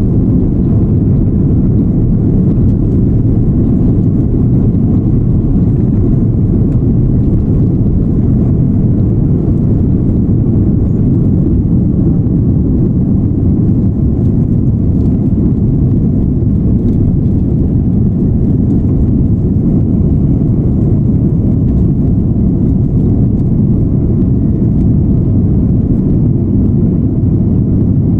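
Jet airliner taking off: a loud, steady low rumble of engines and rushing air that holds unchanged throughout.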